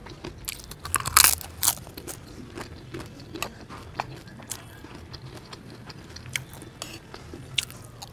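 Close-up crunching of a crisp fried cracker being bitten, loudest about a second in, followed by chewing with scattered smaller crunches.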